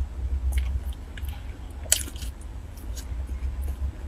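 Close-miked chewing of a soft cream-topped bread bun: wet, squishy mouth sounds and scattered small clicks, with one sharp, louder click about two seconds in. A steady low hum runs underneath.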